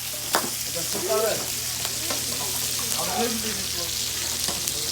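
Meat sizzling on a wood-fire barbecue grill, a steady hiss with scattered sharp crackles. Faint voices murmur underneath.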